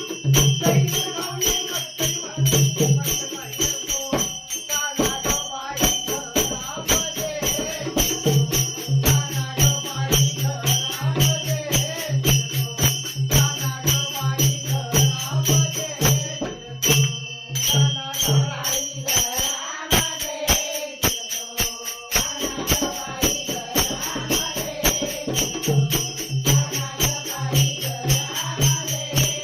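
Instrumental accompaniment of a Marathi gaulan devotional song: small cymbals or bells jingling in a fast, steady beat over a wavering melody and a steady low drone. The drone drops out briefly twice past the middle.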